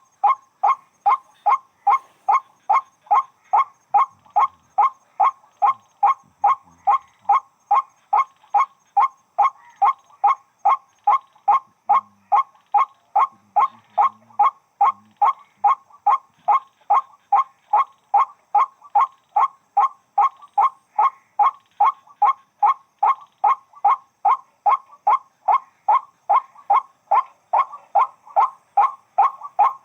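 White-breasted waterhen (burung wak-wak) calling: the same short note repeated over and over without a break, about two and a half times a second.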